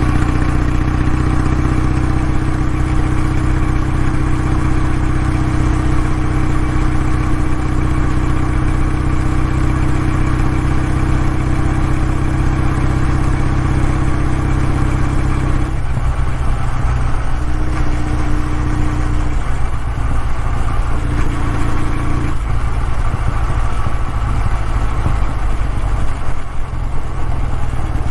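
Kawasaki W650 motorcycle's air-cooled parallel-twin engine running steadily through its exhaust. Its note shifts slightly about sixteen seconds in and again near twenty-two seconds.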